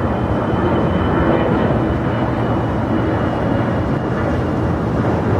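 Jet airliner engines running: a loud, steady rumble with a faint high whine that fades away.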